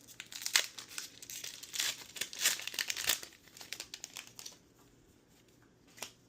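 Foil wrapper of a Pokémon trading card booster pack crinkling and tearing as it is opened by hand, a run of irregular crackles for about four and a half seconds, then a single click near the end.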